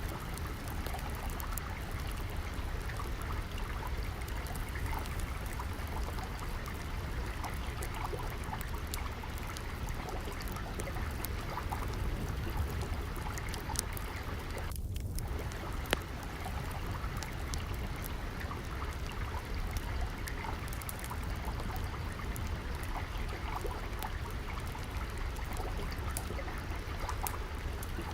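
Steady trickling, flowing water with scattered sharp crackles and pops of a wood fire, one louder pop about two-thirds of the way in.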